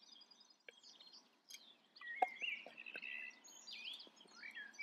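Songbirds chirping faintly, a string of short twittering phrases, with a few soft clicks about two seconds in.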